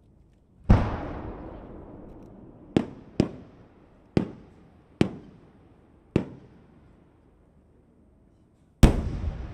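12-inch (shakudama) aerial firework shells bursting. A deep boom with a long rolling echo comes about a second in, then five sharper bangs over the next few seconds, and another big boom with a long echo near the end.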